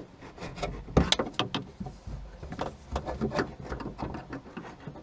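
Plastic car-door trim being worked loose by hand, a string of irregular clicks and knocks with a sharper snap about a second in.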